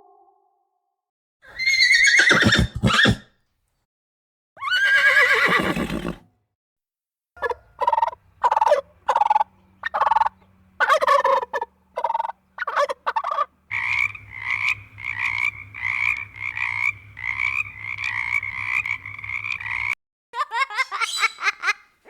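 A sequence of animal calls: two long pitched calls, then a run of short repeated calls, then a faster, evenly spaced string of calls.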